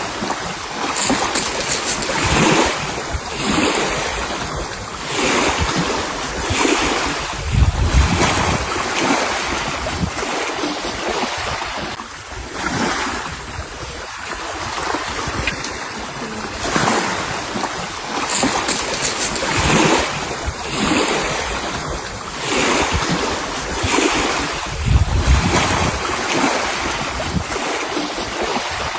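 Sea waves washing in and out, swelling every couple of seconds, with wind gusting on the microphone and two heavy buffets.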